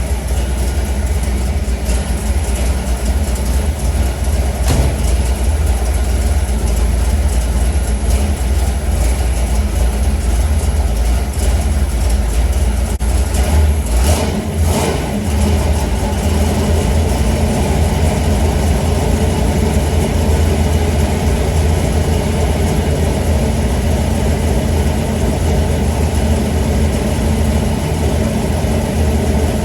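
Ford FE 390 big-block V8 idling steadily, warming up after a cold start, with a couple of brief knocks about halfway through.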